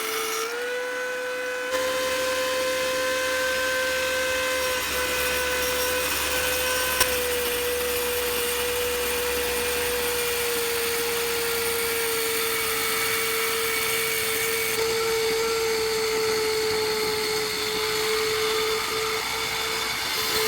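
Electric drill driving a homemade table saw's 5-inch circular blade, running with a steady high motor whine whose pitch sags a little over the second half. A single click is heard about seven seconds in.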